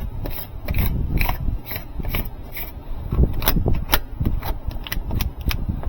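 Tape being handled and rubbed down: a string of short, irregular rasps and rustles, a few a second.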